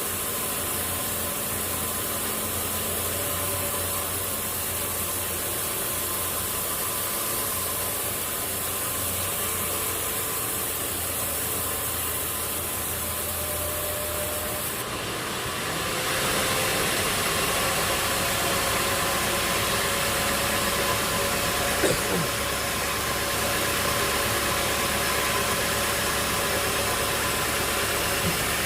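An engine running steadily at a constant speed. About fifteen seconds in its sound shifts and gets a little louder, and there is a single knock a few seconds later.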